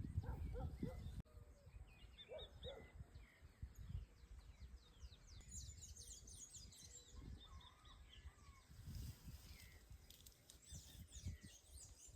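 Faint small birds chirping, many quick falling chirps in clusters, over a low rumble.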